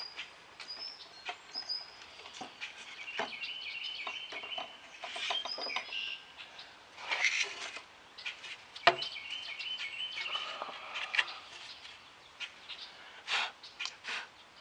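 Birds chirping in repeated short trilled phrases, with a few higher whistled notes, over scattered sharp knocks.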